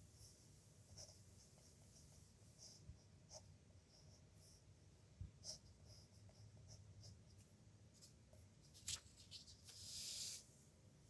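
Pen nib scratching faintly on paper in short strokes, with a sharp tick just before the last stroke and a longer, louder scratch of about half a second near the end.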